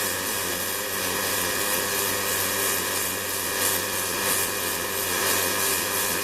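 Robotic welding with a Fronius CMT power source on an ABB welding robot: a steady arc hiss over a hum with several steady tones, unbroken throughout.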